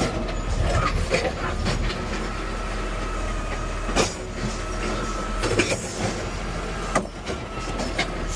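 Garbage truck's diesel engine running with a steady low hum, with several sharp knocks and rattles from the truck, the loudest about four seconds in.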